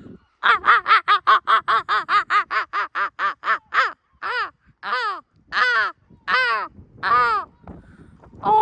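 A gull giving its long call: a fast run of about four sharp, arched yelps a second, slowing after about three and a half seconds into longer, spaced-out calls.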